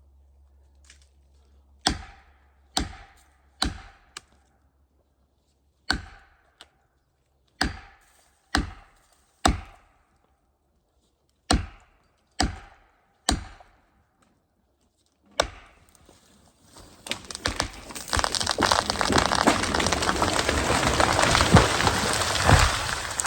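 About eleven sharp strikes in groups of two or three, each with a short ring, typical of a felling wedge being driven into the cut. Then a long, building crackle and crash of splitting wood as the tree breaks and falls into the neighbouring branches.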